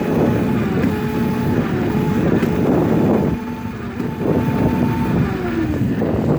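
A dirt bike's motor running as it is ridden, its pitch shifting with speed and dropping near the end, with wind buffeting the microphone.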